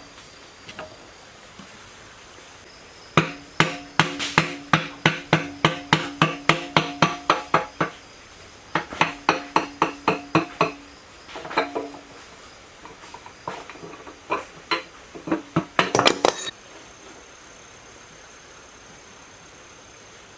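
A hammer striking a metal part that rings after each blow, in quick runs of about four blows a second, then a few scattered blows ending in a quick flurry.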